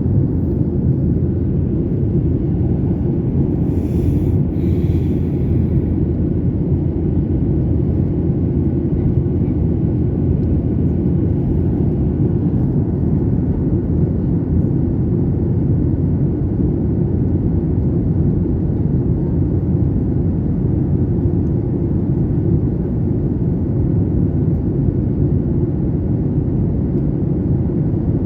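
Steady low rumble of a jet airliner's engines and airflow heard inside the passenger cabin, with a brief hiss about four seconds in.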